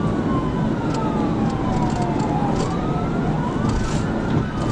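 Police car siren wailing, its pitch rising and falling slowly in long sweeps, over heavy road and engine noise from a cruiser at high speed.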